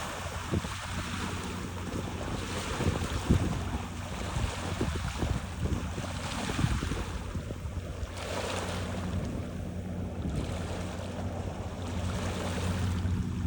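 Small waves lapping on a rocky shore, washing in and draining back in repeated swells every second or two. Wind buffets the microphone, and a steady low drone runs underneath.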